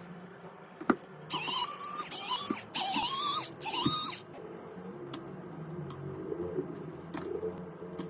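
A small high-speed power tool running in three short bursts, a shrill hiss with a wavering whine, after a single click.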